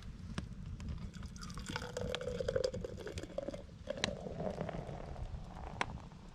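Firewood burning in a campfire, crackling with sharp pops scattered through, over a steady low rumble. A wavering pitched tone sounds through the middle for about four seconds.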